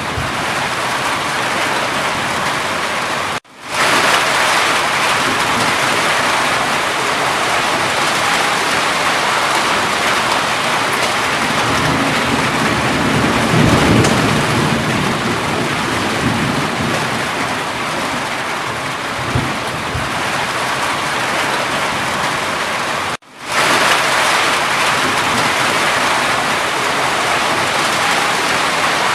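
Steady heavy rain falling, with a low rumble of distant thunder swelling and fading around the middle. Twice the sound cuts out almost completely and fades back in, once early and once near the end.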